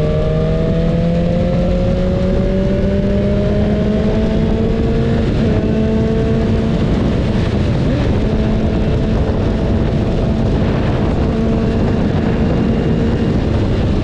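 BMW S1000RR inline-four engine running under way, its pitch climbing slowly as it gathers speed and then holding steady, over a constant rush of wind and road noise.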